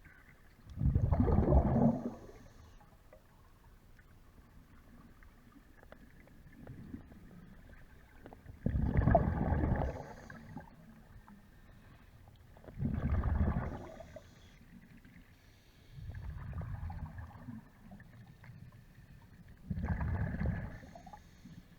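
Scuba diver's regulator heard underwater: five gurgling bursts of exhaled bubbles, each about a second long, spaced a few seconds apart.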